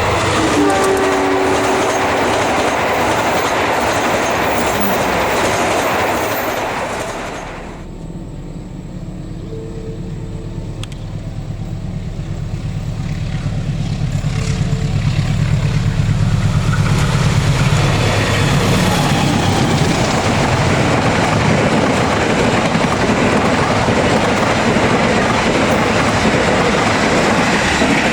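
Train running on its rails through a curve, with loud rolling noise and rhythmic clatter of wheels over the track. The noise drops suddenly about seven seconds in to a low rumble, then builds back up over the following ten seconds.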